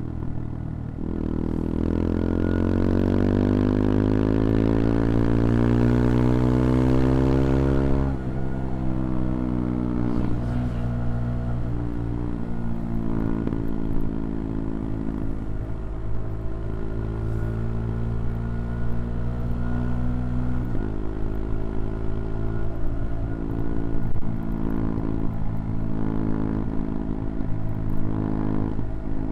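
CFMoto Papio XO-1's small single-cylinder engine accelerating, its pitch climbing steadily for about seven seconds, then dropping suddenly as the revs fall. It then runs on with smaller rises and falls in pitch, stepping down again about two-thirds of the way through.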